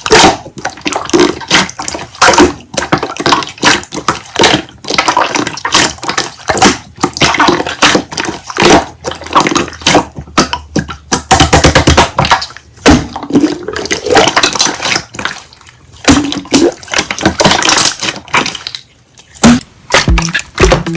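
Slime being squished and stretched by hand, a dense run of wet clicks, pops and squelches.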